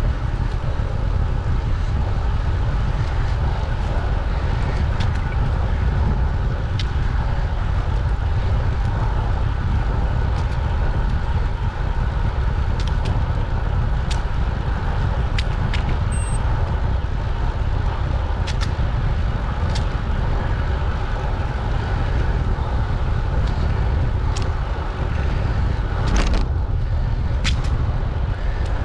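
Wind buffeting the microphone while riding a bicycle: a steady low rumble over tyre and road noise, with scattered short clicks and ticks.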